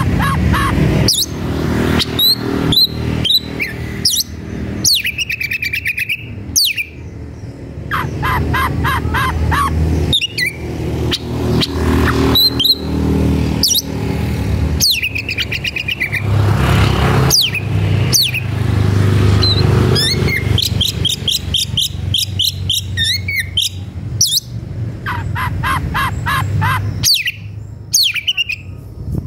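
Oriental magpie-robin (kacer) singing hard in quick, varied phrases of sharp chirps and fast trills of rapidly repeated notes. This is the worked-up song of a bird in high agitation, challenging a rival. A steady low rumble runs underneath.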